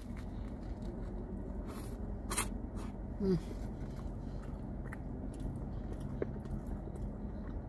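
Close-up mouth sounds of biting into and chewing a toasted sub sandwich: soft crunches and wet chewing clicks over the steady low hum of a car's air conditioning.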